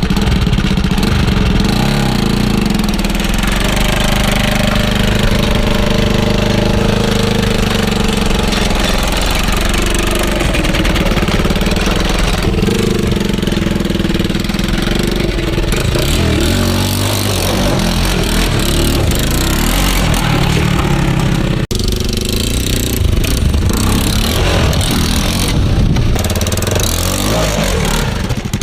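Honda 400EX quad's single-cylinder four-stroke engine running through a custom muffled exhaust, revving up and down under riding. The sound breaks off abruptly about three-quarters of the way through and resumes straight away.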